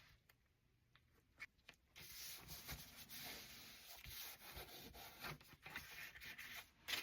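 Faint rubbing and handling of paper by hand, as a glued paper piece is pressed down onto a journal page; it starts about two seconds in, after a short near-silence.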